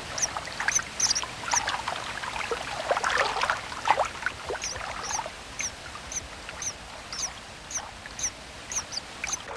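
American dipper nestlings begging at the nest: short high chirps repeated about twice a second, with a busier burst of calls about three to four seconds in, over the steady rush of a waterfall.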